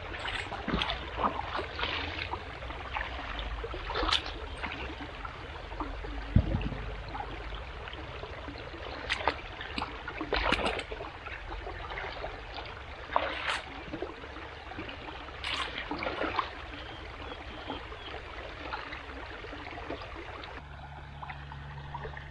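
Floodwater running steadily, with a handful of irregular splashes and sloshes in the water.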